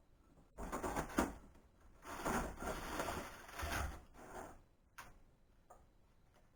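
Workshop handling noises from dismantling a band saw: irregular scraping and shuffling of parts, then two sharp clicks near the end.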